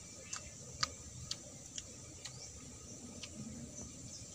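A person chewing a mouthful of raw fruit, with a sharp click from each chew about twice a second.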